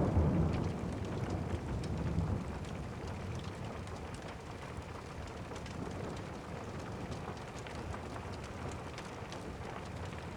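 Steady rain with a low thunder rumble dying away over the first two seconds, then rain alone.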